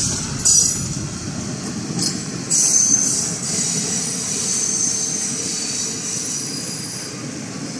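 Passenger train rolling along with its wheels squealing against the rails over a steady low rumble; the high squeal swells about half a second in and again around three seconds in.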